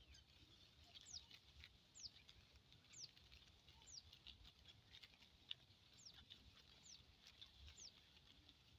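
Faint bird calls: a short, high note sliding downward, repeated about once a second with a gap in the middle.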